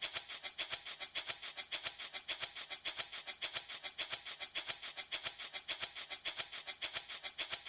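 Handmade baby rattle shaken steadily in a fast, even rhythm, about six or seven shakes a second, giving a bright, hissy rattle.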